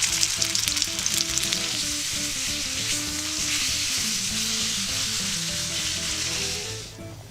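Food frying in a carbon steel frying pan: a steady, loud sizzle with fine crackling that dies away near the end.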